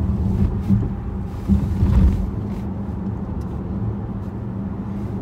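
Steady low drone of a 2011 Dodge Charger R/T's 5.7-litre HEMI V8 and its tyres, heard inside the cabin while driving, with a couple of louder low thumps about a second and a half to two seconds in.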